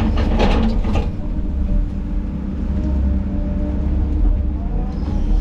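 Diesel engine of heavy tracked equipment running steadily, heard from the cab, with a few sharp cracks and snaps of brush in the first second and a faint rising hydraulic whine near the end.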